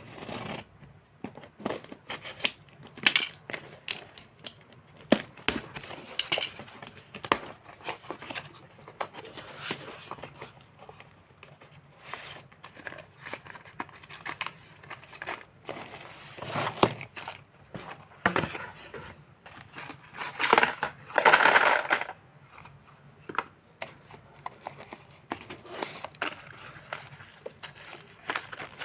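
A new box of Baalveer slate pencils being opened by hand: packaging tearing and crinkling, with many small clicks and taps. The longest and loudest stretches of tearing and rustling come about two-thirds of the way through.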